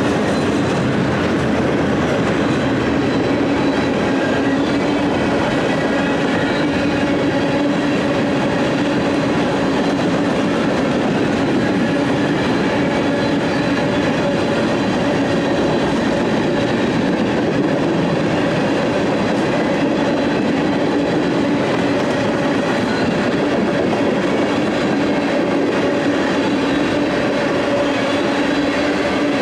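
Freight train cars rolling past on the track, a steady, unbroken rolling noise with a steady tone running through it.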